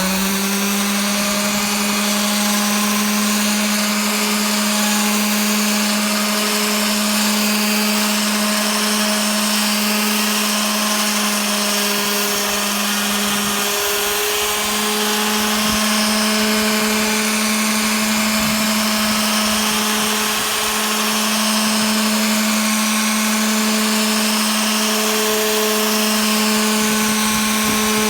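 Electric power sander with 320-grit paper running steadily against a Coppercoat copper-epoxy antifouling coat on a boat's rudder, a steady motor hum over sanding hiss, dipping briefly in pitch a couple of times as it is pressed in.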